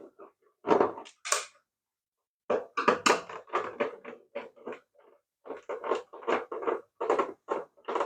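Irregular plastic clicks and knocks from a toy RC car's plastic body and parts being handled and unscrewed during disassembly.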